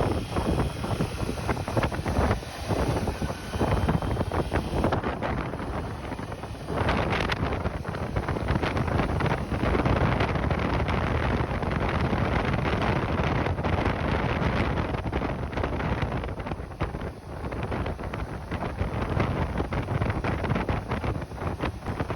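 Wind buffeting the microphone over the low rumble of a motorcycle on the move.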